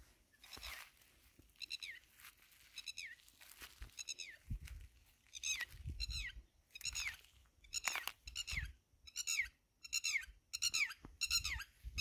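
A bird calling again and again overhead: short, harsh calls that each slide down in pitch, about one a second at first and coming faster near the end. A few soft low thumps of footsteps on the dry ground run underneath.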